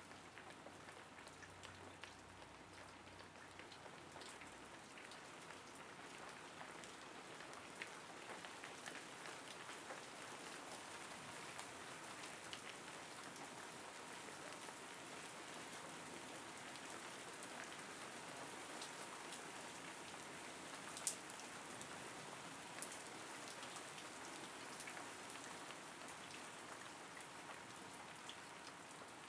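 Steady rain falling, an even patter with scattered sharper drop ticks close by. One louder tick comes about two-thirds of the way through.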